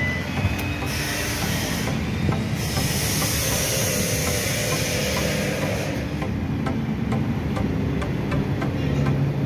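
Ford Fiesta engine idling with the cabin AC blower fan running: a low engine rumble under a rush of air. The air hiss grows louder about a second in and eases off again about six seconds in.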